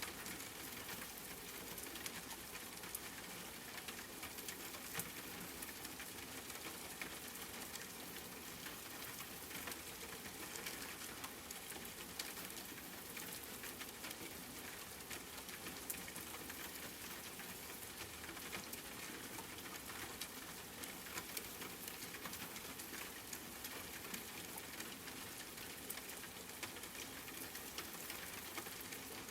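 Steady rain falling, an even hiss with many small drop ticks scattered throughout.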